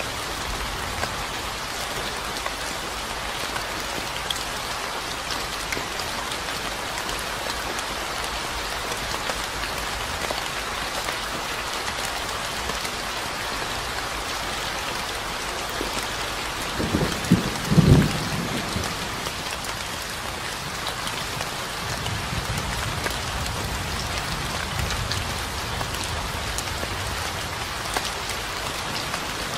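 Steady rain falling, an even hiss of many drops. About two-thirds of the way in, a short loud roll of thunder rumbles low, followed by a fainter rumble a few seconds later.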